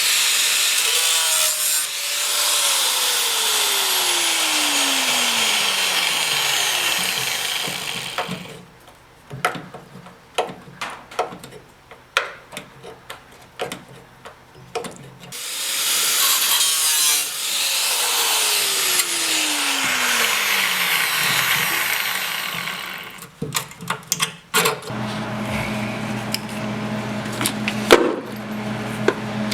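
Hand-held power grinder working on car body metal in two long runs of several seconds each, with a string of sharp knocks and clicks between them. A steady low hum comes in near the end.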